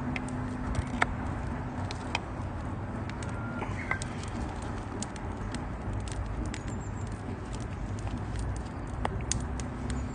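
Wood campfire crackling: scattered sharp pops and snaps at irregular intervals, a few louder ones standing out, over a low steady rumble.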